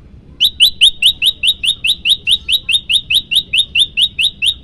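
Prenjak lumut (a small prinia-type songbird) singing a fast, even series of short, high, upward-sweeping notes, about five a second, starting about half a second in.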